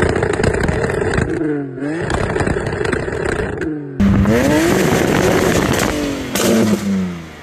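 A tuned BMW N52 3.0-litre straight-six is revved up and held on a hard-cut rev limiter. The ignition cut at redline gives a rapid, stuttering crackle as the revs bounce off the limit. From about four seconds in it is heard from inside the car.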